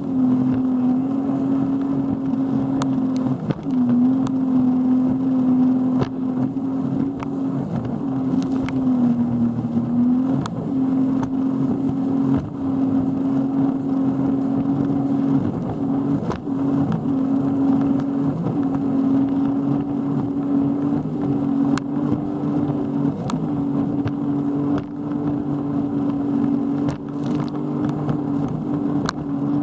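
Boat engine running steadily under way, its pitch dipping briefly a few times, near the start and again about nine seconds in.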